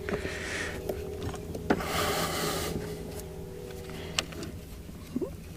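Hands working a plastic boat remote control: two stretches of rubbing or scraping with several light clicks, over a faint steady hum.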